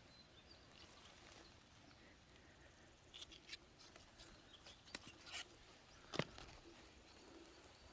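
Near silence, with a few faint rustles and clicks from plant foliage being handled, about three seconds in and again around five and six seconds.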